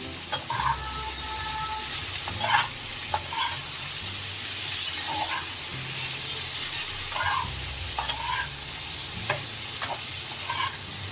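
Prawns sizzling in hot mustard oil along with jackfruit and potatoes, being stirred, with scattered scrapes and clicks against the pan over a steady hiss.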